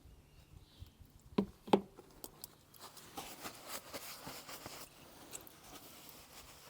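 Two sharp knocks about a third of a second apart, then a couple of seconds of rustling and scraping.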